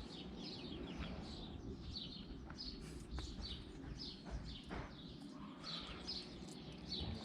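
Small birds chirping: a steady run of short, high, falling chirps repeating every fraction of a second, with a few faint knocks mixed in.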